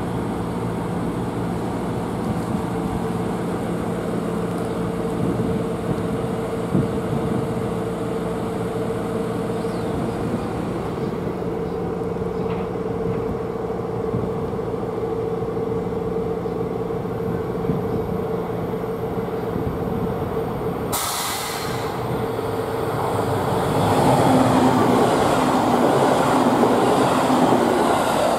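A GV-E400 series diesel-electric railcar stands with its engine running, giving a steady hum with a held mid-pitched tone. About 21 seconds in there is a brief sharp noise. From about 24 seconds a second train passes close by with a louder rushing rumble.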